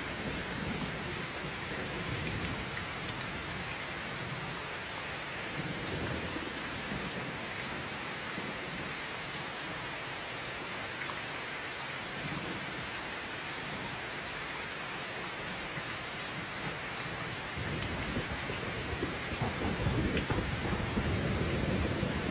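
Steady rain falling, with a low rumble of thunder swelling up about three-quarters of the way through.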